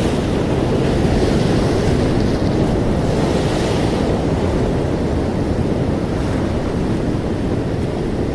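Ocean waves washing in as a steady rush of surf, with a wave swelling and breaking about one to four seconds in.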